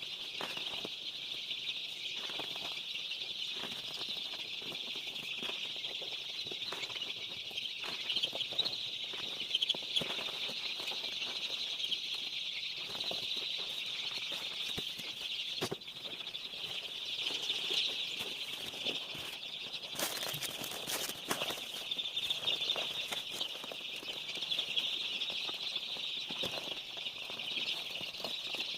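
A large group of day-old broiler chicks peeping continuously in a dense, high-pitched chorus. Scattered light knocks and rustling from cartons and chicks being handled, sharpest a little past two-thirds of the way through.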